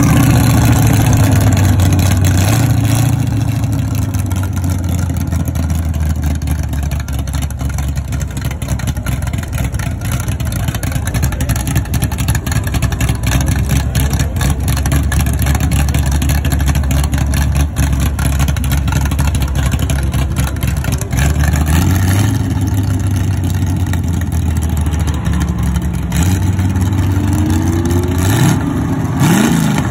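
Engine of a classic first-generation Ford Mustang fastback held at steady high revs while it does a burnout, the rear tyres spinning in place. Near the end the revs climb and fall several times.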